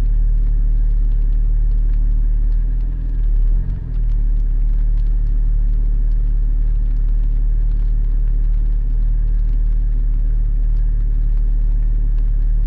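Porsche 718 Spyder's flat-six engine running steadily under road rumble while driving, dipping briefly about three and a half seconds in.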